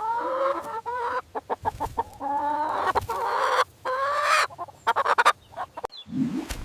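Chicken calling: a few drawn-out, gliding squawks with runs of short, quick clucks between them.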